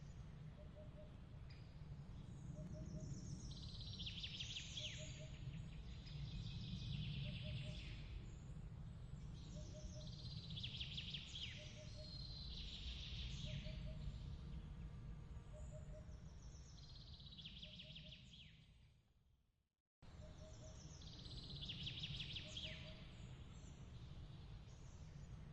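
Recorded nature ambience: birds calling in short trilled chirps every few seconds over a steady low rumble, with a short low note repeating about once a second. Near the end the bed fades out to silence and starts again abruptly, the join of a looped track.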